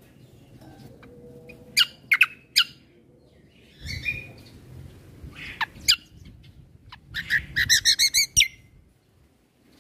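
Kecial kombo (cucak kombo) songbird calling: sharp, high, separate chirps, then a fast trill of about eight notes near the end.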